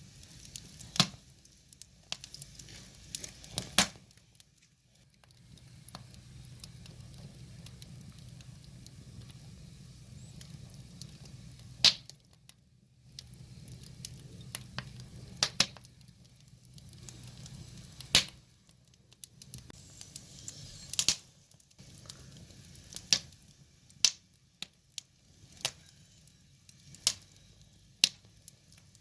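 Wood fire burning, with irregular sharp pops and crackles from the burning logs over a faint low hiss.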